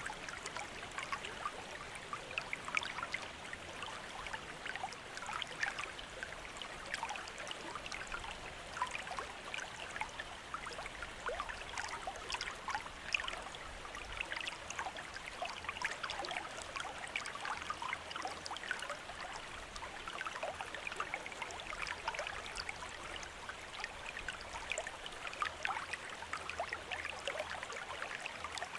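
Bamboo water fountain: water trickling steadily from the spout and splashing into the basin below, with a constant patter of small drips and splashes.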